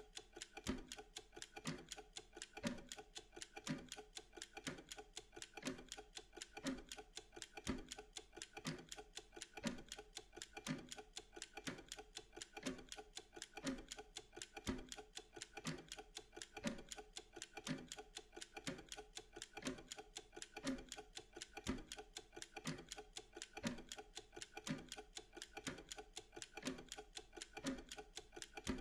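Clock ticking steadily: a heavier tick about once a second with lighter, quicker ticks in between, as a Pomodoro timer's ticking during a focus interval.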